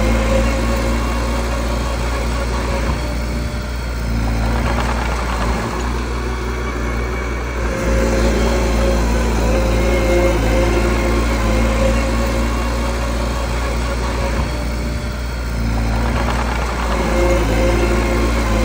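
Small bulldozer's diesel engine running steadily under work, its note easing off briefly a few seconds in and again about three-quarters through, then picking up again.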